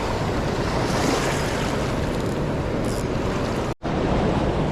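Steady rush of a fast, swollen river in full flood, loud and close. It cuts out for an instant about three-quarters of the way through, then carries on.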